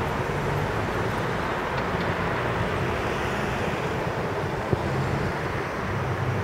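London Underground S-stock train running away over the tracks and points: a steady rumble that swells and fades, with one sharp click about three-quarters of the way through.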